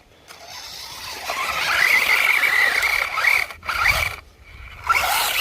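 Electric RC truck's motor whining as it drives over rough ground, with scraping noise. The whine rises in pitch about a second in, cuts out after about three and a half seconds and starts again near the end.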